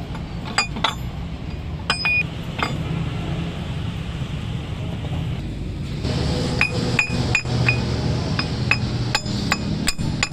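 Metal clinking and tapping: steel tools and parts striking one another, each hit ringing briefly, repeated irregularly over a steady low hum.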